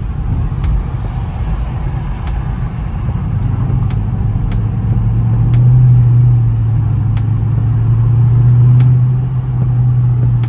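Dodge Charger R/T's 5.7 L HEMI V8 with a mid-muffler and resonator delete, heard from inside the car at highway speed: a low exhaust rumble that turns into a strong steady drone about three seconds in and grows louder for a few seconds before easing slightly.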